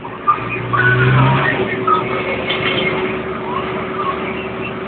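Tractor engines running, with a deeper engine note swelling and then dropping back about a second in.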